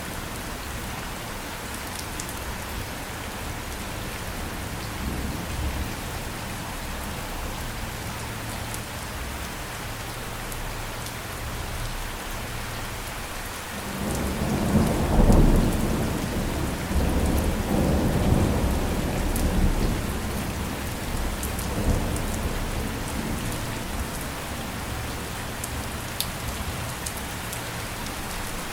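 Steady rain falling, with a roll of thunder about halfway through that swells quickly, rumbles on in waves for several seconds and then fades back under the rain.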